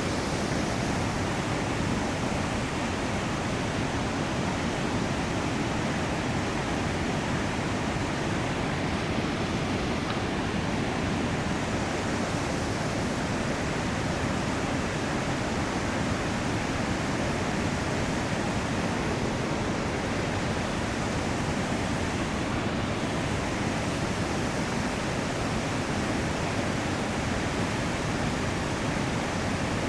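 River rushing: a steady wash of whitewater.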